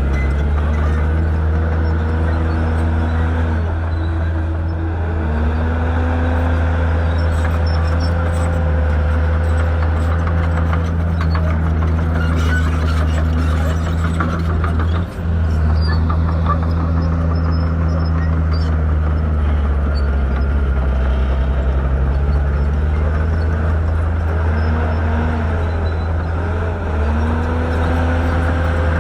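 Shantui bulldozer's diesel engine running hard, its speed dipping and climbing back several times as the load changes, with a brief drop in level about halfway.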